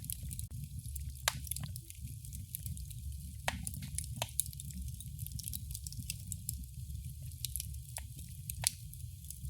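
Wood fire crackling in a fireplace: a steady low rumble of the flames under a soft hiss, with sharp irregular pops and snaps, a few of them louder than the rest.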